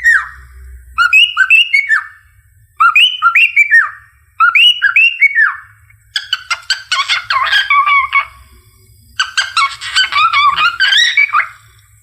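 Cockatiel whistling: four short phrases of quick, upward-sliding whistled notes, then two longer stretches of busy chattering warble with clicks.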